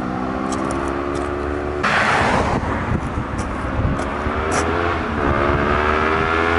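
Kawasaki Ninja 250's parallel-twin engine through a stainless full exhaust, revving higher and higher as the bike accelerates toward the microphone. A brief rush of noise comes about two seconds in.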